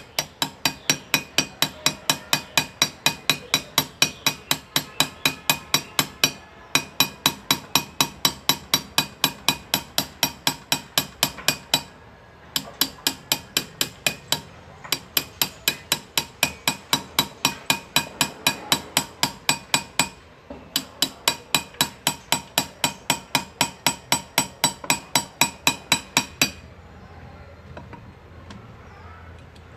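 Hand engraving: a small hammer tapping a chisel into metal at a steady four or five strikes a second, each strike ringing. The strikes come in runs of a few seconds with brief pauses and stop a few seconds before the end.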